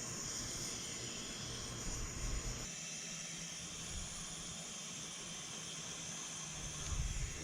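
Gas torch flame hissing steadily while it heats an exhaust header pipe to a red glow for bending.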